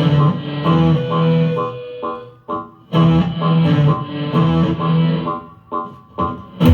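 Live electric guitar playing a repeating intro riff of plucked notes, in two phrases with short breaks between them.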